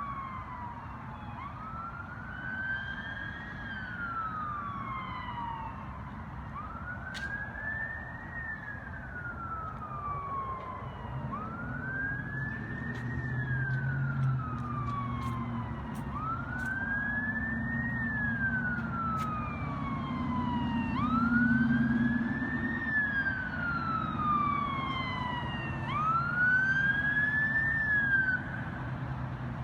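Emergency vehicle siren on a slow wail, rising and falling about every five seconds, over a deep engine rumble. It grows louder in the second half.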